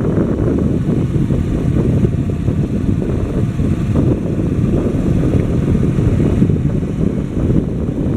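Motorcycle engine running steadily while riding, mixed with a low wind rumble on the microphone.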